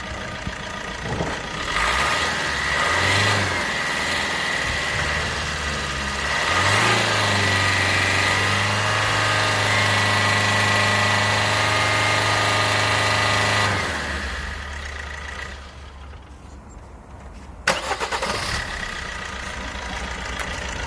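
Opel Astra's 1.3 CDTI (Z13DTH) four-cylinder turbodiesel running, revved up briefly and then held at raised revs for several seconds before dropping back down about fourteen seconds in. A single sharp click comes near the end.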